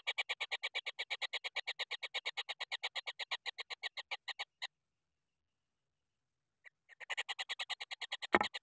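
Kingfisher chick calling in a rapid, even series of harsh notes, about eight a second. The calls break off abruptly about four and a half seconds in and start again two seconds later. A sharp knock sounds near the end.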